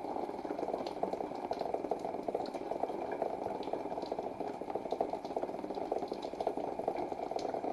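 Steady rain falling on a waterlogged cardboard box fort, heard from inside: a dense, even patter of drops.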